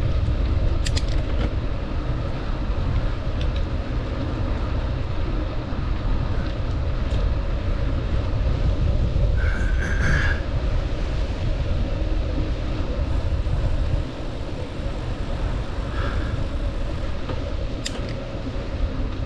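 Low, uneven rumble of wind buffeting the microphone on a moving bicycle, dropping off suddenly about two-thirds of the way through. A short high tone sounds about halfway.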